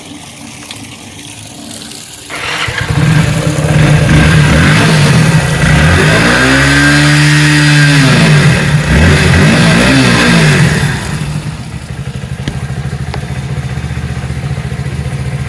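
Motorcycle engine starting about two seconds in, revved up and back down a couple of times, then settling to a steady idle.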